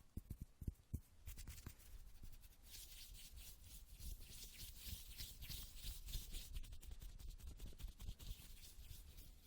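ASMR hand sounds close to the microphone: a few quick soft taps in the first second, then hands rubbing and rustling from about three seconds in.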